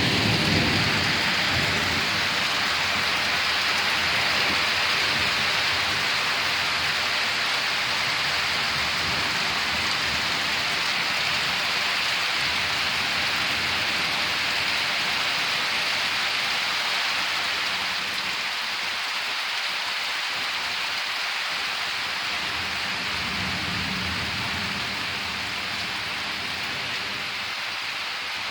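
Heavy summer rain pouring steadily, with a low rumble of thunder dying away in the first couple of seconds. The downpour eases slightly in the second half.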